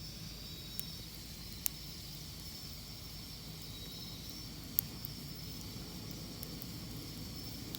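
Wood campfire burning: a steady low rush of flame with a constant high hiss, broken by sharp crackles and pops from the burning wood, two of them louder, about 2 and 5 seconds in.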